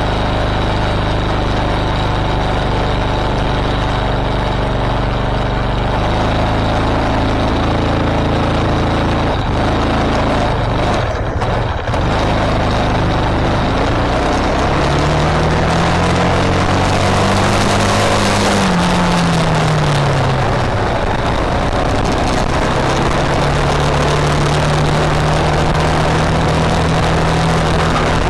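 An engine running steadily, revved up and back down once about halfway through, then settling to a steady speed.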